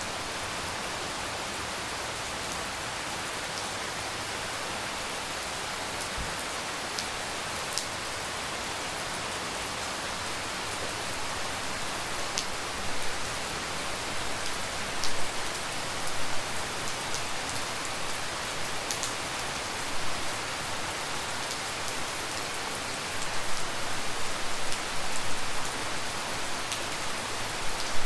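Steady tropical rain falling, with scattered individual drops ticking close by. From about halfway through, heavier drops land in irregular bursts.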